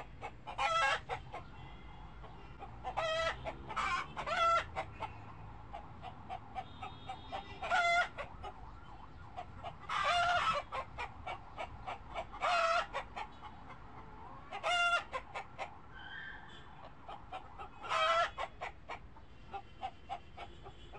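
Chickens clucking: about ten short calls spread through the stretch, a second to a few seconds apart, with faint ticking between them.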